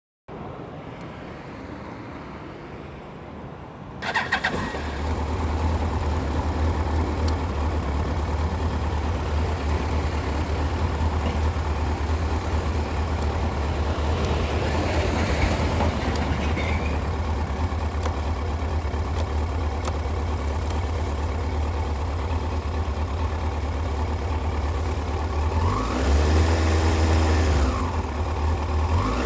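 2000 Yamaha YZF-R1's inline-four engine starting with a brief crank about four seconds in, then idling steadily, with a short rev near the end.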